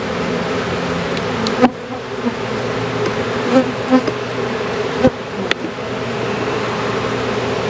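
Honey bees from an opened hive buzzing in a steady, dense drone. A few sharp clicks sound over it, about 1.7, 5 and 5.5 seconds in.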